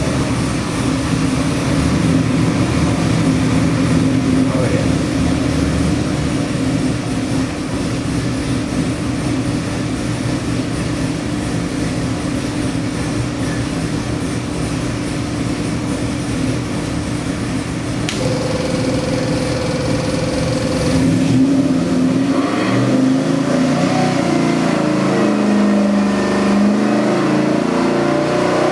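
Chevy LS-based 441 cubic-inch stroker V8 running at a steady speed for about twenty seconds, then revved up and down near the end.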